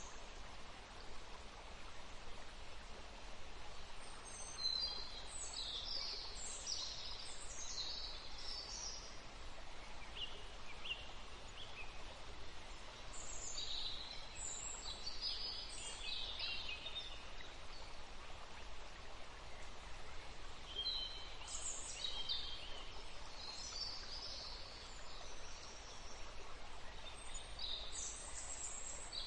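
Several small songbirds chirping and trilling in short high bouts over a steady faint background hiss, with lulls between the bouts.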